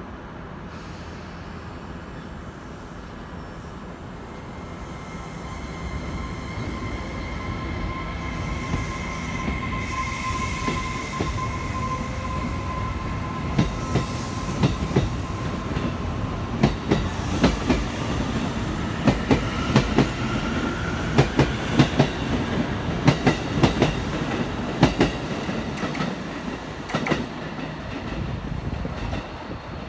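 JR Kyushu 811 series electric commuter train pulling out of a station: its motors whine steadily and then rise in pitch as it picks up speed. From the middle on, the wheels clack in quick groups over rail joints as the cars roll past.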